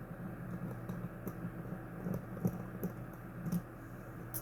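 Scattered light clicks and taps, about seven at irregular intervals, over a steady low hum.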